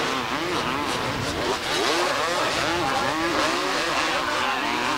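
Several 250cc two-stroke motocross bikes racing at once, their engines revving up and falling back over and over, the rising and falling notes overlapping.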